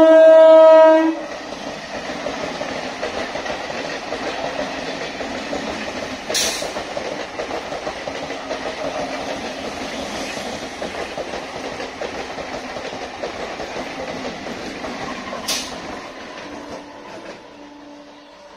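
A sea-green ICF electric multiple unit local train sounds a loud horn for about a second, then runs past at speed with a steady rumble and clatter of wheels over the rails, broken by two sharp knocks. The sound fades away near the end.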